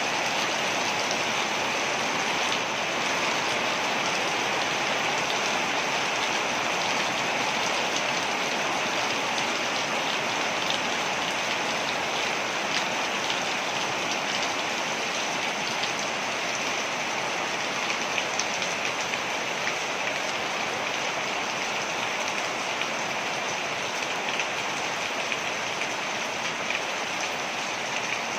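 Waterfall: a steady, unbroken rush and splash of falling water, with fine spattering droplets.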